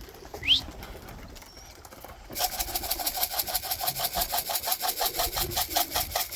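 A short rising whistle about half a second in, then from about two and a half seconds a fast, even rattle, about eight to ten shakes a second: grain shaken in a feed container to call pigeons down to the loft.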